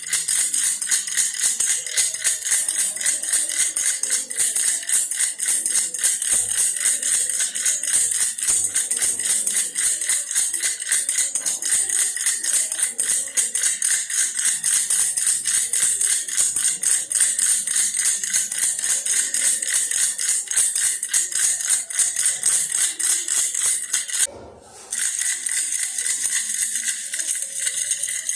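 Baby rattle toy bear being shaken continuously: a rapid, dense rattling that stops for about half a second roughly 24 seconds in, then carries on.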